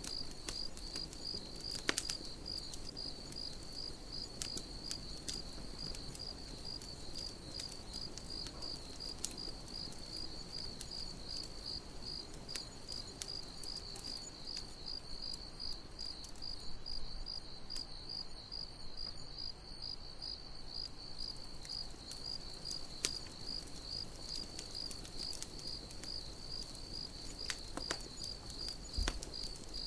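Crickets chirping steadily in an even, high-pitched pulse, over a campfire's low hiss with scattered crackles and a few sharper pops.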